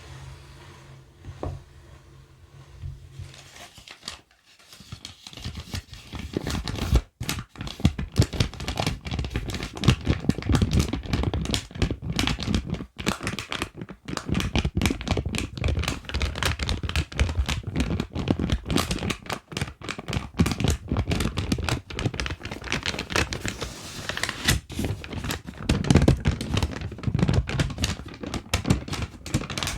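ASMR trigger sounds: a dense, continuous run of crinkling and crackling, as of material being crumpled, starting about four seconds in after a quieter stretch.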